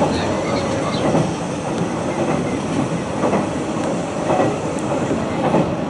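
Hanshin Railway train running between stations, heard from inside the carriage: a steady rumble of wheels on the track with a few faint clacks.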